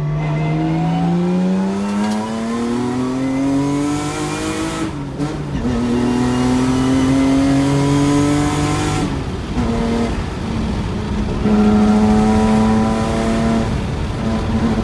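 Nissan Skyline GT-R's RB26DETT twin-turbo straight-six, breathing through an active silencer exhaust, accelerating hard: the revs climb steadily, break for a gear change about five seconds in, climb again, and break again about nine seconds in. After that the engine runs at a steadier pitch, cut briefly a few times.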